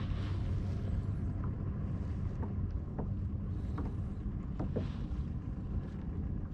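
Wind buffeting the microphone over the steady low rumble of a kayak under way at sea, with small irregular splashes of water against the hull.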